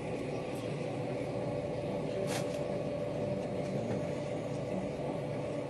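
Queensland Rail Tilt Train running, heard from inside the carriage as a steady rumble with a faint steady whine. There is a brief click about two seconds in.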